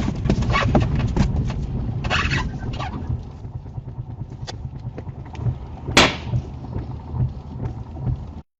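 Steady low rumble of a moving car, with scattered clicks and one sharp knock about six seconds in; the sound cuts off suddenly near the end.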